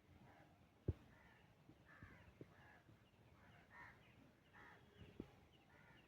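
Faint harsh, chattering calls of jungle babblers, repeated in short rasping bursts. Two sharp clicks, about a second in and again about five seconds in, stand out above the calls.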